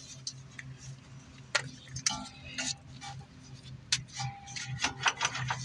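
Scattered light metallic clicks and ticks of hand tools on bolts during reassembly of a car's front suspension, several in quick succession near the end, over a steady low hum.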